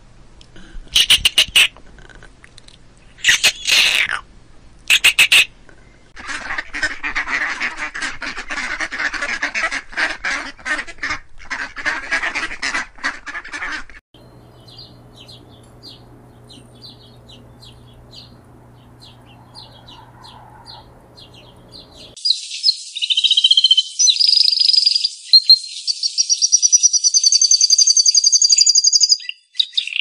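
Calls of several different birds, one after another: loud short chattering calls in the first few seconds, a dense stretch of noisy calling to about halfway, thin high peeps, then a loud warbling song with rising trills near the end.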